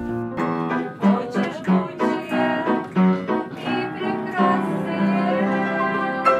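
Music: a piano playing a melody in separate, clearly struck notes.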